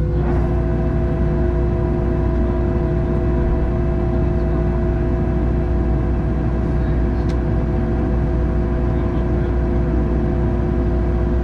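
Steady cabin drone of a Boeing 737-700 airliner: a deep hum with several steady whining tones from the engines and air systems over a wash of noise. One whining tone changes pitch just after the start, and changes back at the very end.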